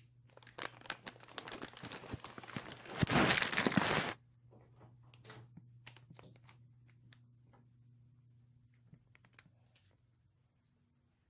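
Plastic bag crinkling and rustling as it is handled, loudest about three to four seconds in, then stopping abruptly; a few light clicks and knocks follow over a low steady hum.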